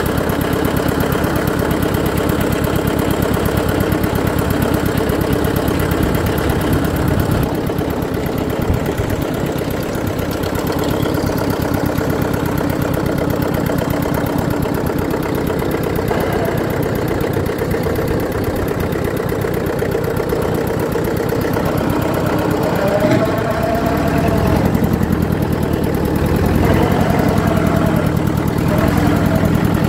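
Eicher tractor's air-cooled diesel engine running, its exhaust pulsing steadily. The note changes about seven seconds in, then grows louder and deeper from about three-quarters of the way through.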